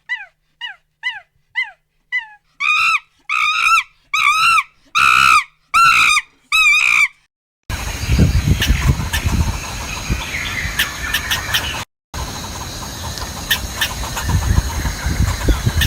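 A series of high animal calls: first short falling chirps, then from about two and a half seconds longer arched squealing calls, roughly two a second. Halfway through the calls stop and give way to a loud, rough noise with low rumble and scattered clicks, which breaks off briefly near the end.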